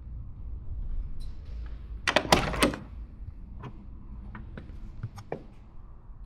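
Door latch and panel of a 1958 Porsche 356A clunking, a quick run of knocks lasting about half a second, followed by a few scattered light clicks over a low rumble.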